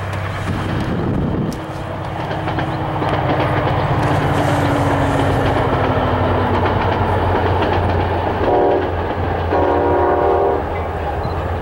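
An ACE commuter train is passing, with the steady drone of its diesel engine and its wheels running on the rails. Its horn sounds twice near the end, a short blast and then a longer one.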